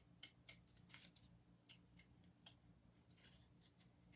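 Faint small clicks and brief rustles of craft supplies being handled, over a low steady hum.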